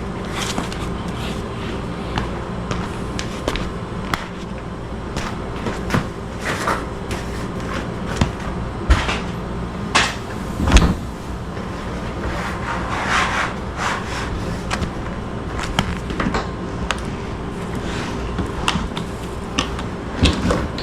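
Scattered knocks, clunks and scrapes as a dishwasher is shifted and slid in its under-counter opening, over a steady low hum. The loudest knocks come about ten and eleven seconds in.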